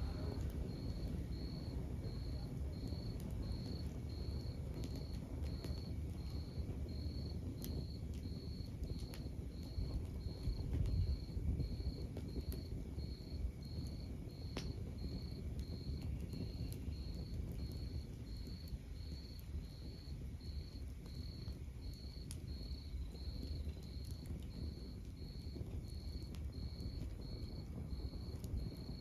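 Wood fire burning with a low rumble and scattered small crackles and pops. Over it, a cricket chirps steadily in high, evenly spaced pulses, about three every two seconds.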